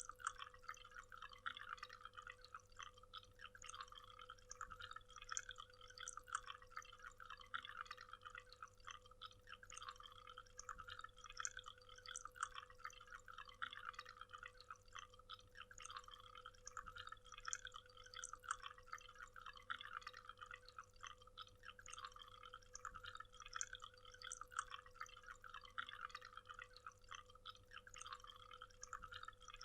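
Faint waterfall ambience: falling water heard as a steady, dense patter of small splashes and drips.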